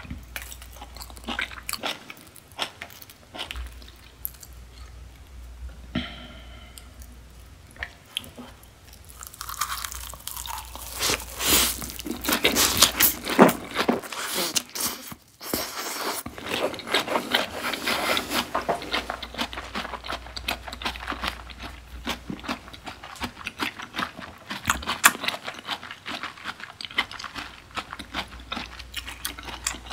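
Close-miked eating sounds: a few small handling clicks, then from about ten seconds in crisp crunching as a roasted seaweed wrap of beef tartare is bitten. Rapid fine crackling and chewing follow as it is eaten.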